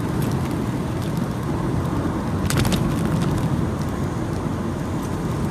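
Steady low rumble of a moving car, with a few short clicks about two and a half seconds in.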